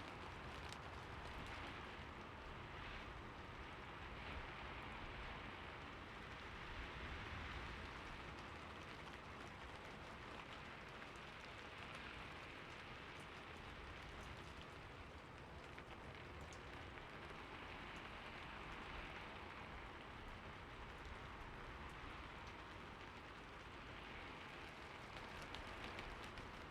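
Steady rain falling, a soft even hiss with scattered faint drop ticks and gentle swells in intensity.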